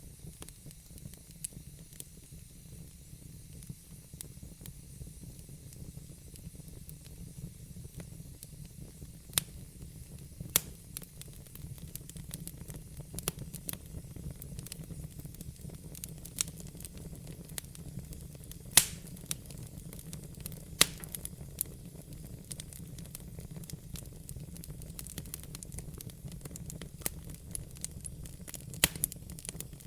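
Wood fire burning in a fireplace: a steady low rumble and hiss of the flames with scattered crackles and a few sharp pops from the burning logs.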